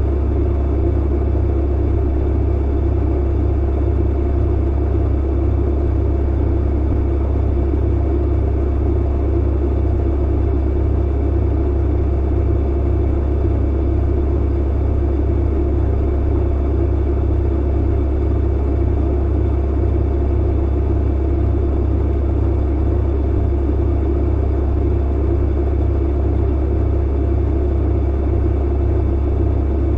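Clothes dryer running: a steady low hum and rumble from the motor and turning drum, unchanging throughout.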